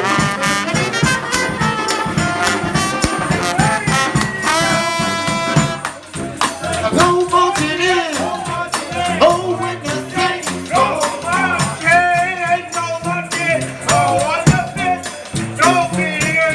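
Live New Orleans-style brass band playing, horns over drums and percussion. A long held chord about four seconds in, a brief drop near six seconds, then bending, wavering melody lines.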